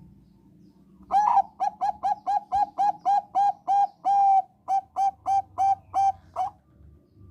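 Zebra dove of the Thai 'perkutut bangkok' song strain singing: a rapid run of about eighteen short, clipped cooing notes at roughly three to four a second. One note is held longer about four seconds in, and the run stops about six and a half seconds in.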